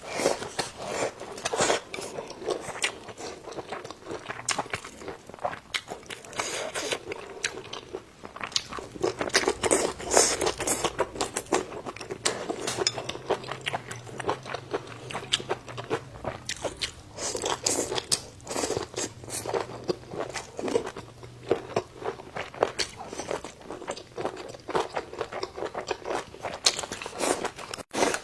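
A person chewing and biting crunchy food, a dense irregular run of crunches and clicks.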